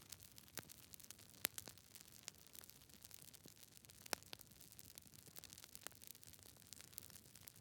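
Campfire crackling close up: irregular sharp pops and snaps of burning wood over a soft hiss, with a couple of louder snaps about one and a half and four seconds in.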